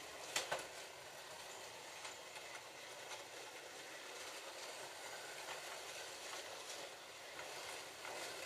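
Several slot cars running around a plastic track, their small electric motors and guides making a steady, fairly faint whirring. A couple of sharp clicks sound about half a second in.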